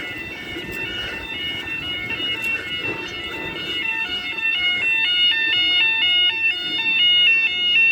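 Level crossing audible warning alarm sounding: a rapidly alternating, stepping electronic two-tone that grows louder, then cuts off suddenly right at the end.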